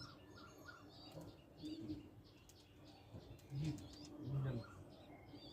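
Pigeons cooing, with two low coos about three and a half and four and a half seconds in, while small birds chirp faintly throughout.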